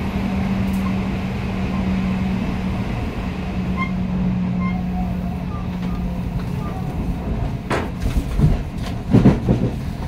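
Odakyu electric train running, heard from inside the passenger car: a steady rumble with a held low tone that fades out about seven seconds in. A few sharp knocks follow near the end.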